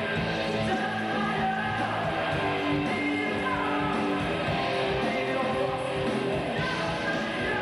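Live rock band playing: electric guitar and drums with singing, held pitched notes over a steady rhythm.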